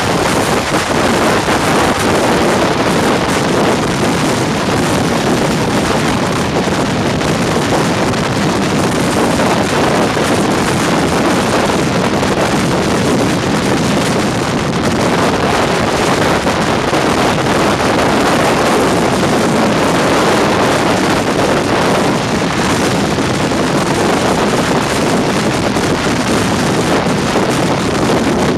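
Steady, loud rush of wind buffeting the microphone held out of the side of the Gatimaan Express, mixed with the train's running noise as it travels at speed.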